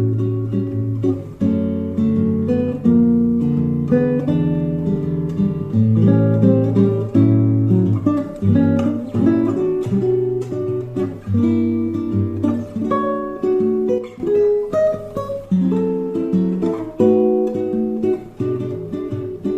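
Solo acoustic guitar playing a samba tune, with bass notes under chords struck in quick succession.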